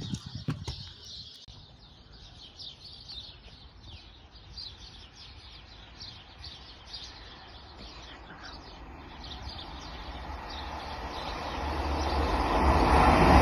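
Birds chirping over quiet surroundings, then an approaching High Speed Train (InterCity 125) whose rushing noise builds steadily through the second half and is loudest at the end.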